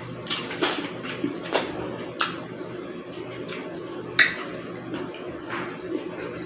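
A person eating soup with rice: wet chewing and smacking mouth sounds, with a few sharp clicks and a steady low hum behind them.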